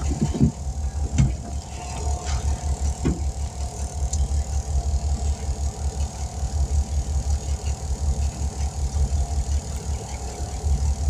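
A motor vehicle engine idling steadily, with an even, low pulsing rumble. A few light knocks come in the first three seconds.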